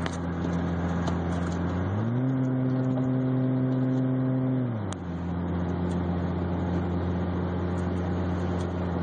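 Twin-turbo 1JZ-GTE inline-six engine in a Lexus SC300 driving along, heard from inside the car. Its revs climb about two seconds in, hold, then fall back a few seconds later to a steady cruise.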